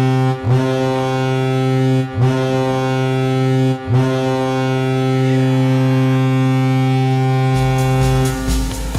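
Hockey goal horn: a low, steady horn blast sounding in long blasts with brief breaks about a second and a half apart, the last held for several seconds. Music starts just before the end.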